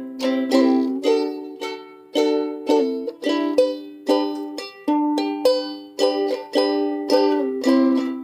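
Ukulele strummed in chords, each strum struck sharply and ringing down before the next, in an uneven rhythm of single and quick double strokes.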